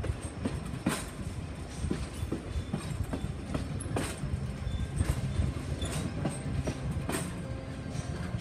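Passenger train rolling along the track, heard from on board: a steady low rumble of wheels on rail, broken by irregular sharp clicks and knocks, the loudest about five seconds in.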